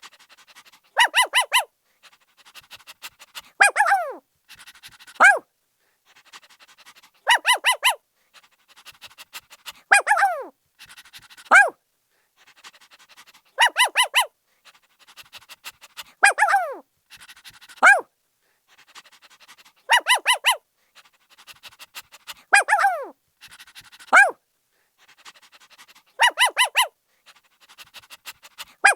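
A puppy barking in a high-pitched, looping pattern: a quick run of four short yaps, then a yelp that falls in pitch, then a single yap. The pattern repeats about every six seconds, with faint clicks between.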